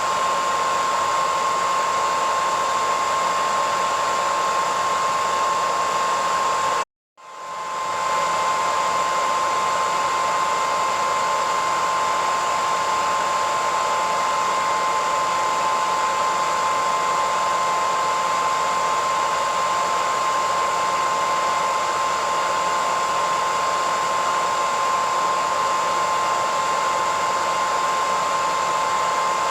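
Hair dryer running steadily: a loud rushing airflow with a high, constant motor whine. About seven seconds in it cuts out to silence for a moment, then comes back, rising to full level over about a second.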